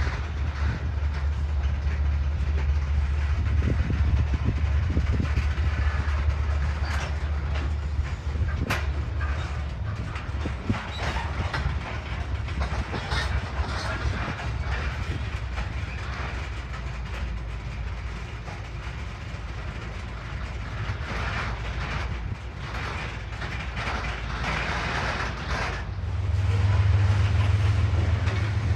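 A train rolling past, its wheels clicking and clattering over the rail joints. A low drone fades in the first few seconds and comes back louder near the end.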